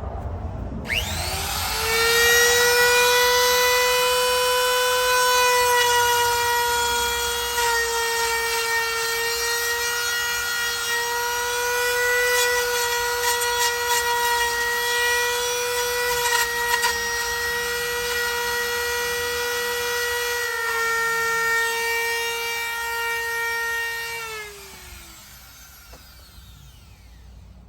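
Electric wood router spinning up about a second in and running at a steady high whine, its pitch sagging briefly as the bit bites into the wood to cut a recess for a door latch, with some clicking chatter midway. It is switched off near the end and winds down with falling pitch.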